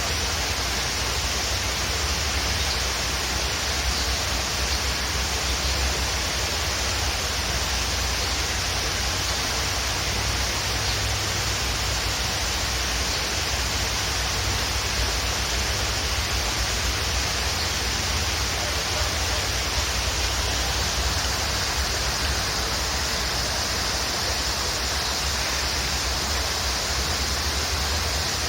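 Waterfall: a steady, unbroken rush of falling water, with a deep low rumble under a bright hiss.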